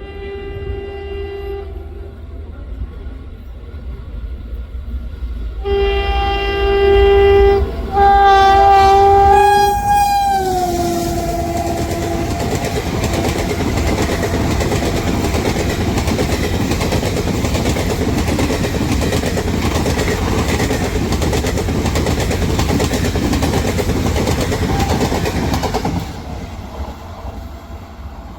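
Indian Railways train sounding its horn as it approaches: a short blast, then two long loud blasts about six and eight seconds in, the pitch dropping as it goes past. Then the rumble and clickety-clack of the coaches running by for about fifteen seconds, cutting off abruptly near the end.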